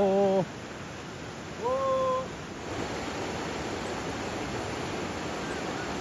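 Steady rushing of river water, with two short shouted calls from a man in the first two seconds.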